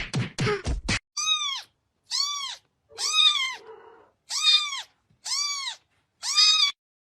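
A cat meowing six times, about a second apart, each meow a short call that rises and falls in pitch.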